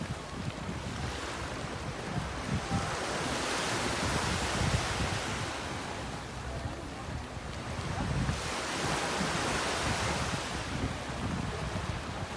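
Sea waves washing, with wind buffeting the microphone; the noise swells and eases every few seconds.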